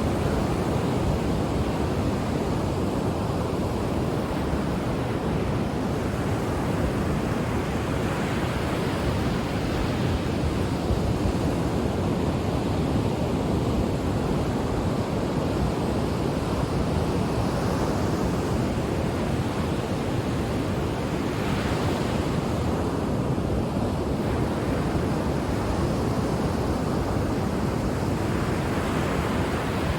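Ocean waves breaking and washing on a shore, a continuous roar of surf that swells and eases as each wave comes in.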